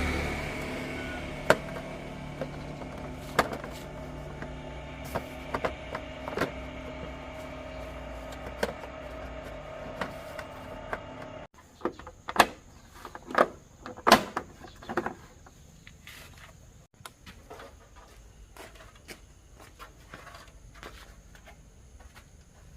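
110cc motorcycle engine running steadily with light clicks over it, cutting off abruptly about halfway through; after that, scattered knocks and clicks of handling tools or parts.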